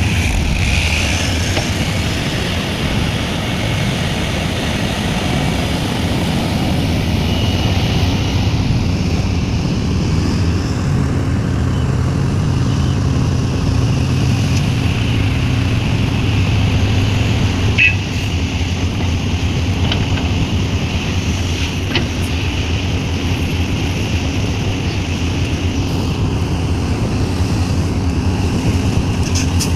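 Sumitomo SH350 excavator's diesel engine running steadily, its pitch rising for several seconds midway as it takes load, with two short sharp knocks a little after the middle.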